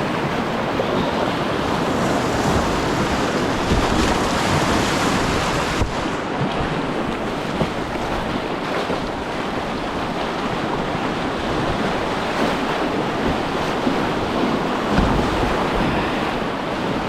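Whitewater rapids rushing steadily and loudly around a kayak running a rough section of river, with wind noise buffeting the microphone, heaviest near the end.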